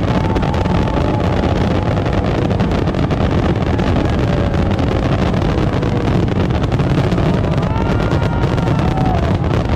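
Fireworks display going off continuously: dense crackling over a steady low rumble, with a few faint whistles sliding up and down in pitch.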